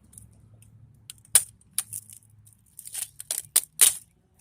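Sharp clicks and clinks of small metal and plastic parts being handled: a couple about one and a half seconds in, then a quick cluster about three to four seconds in.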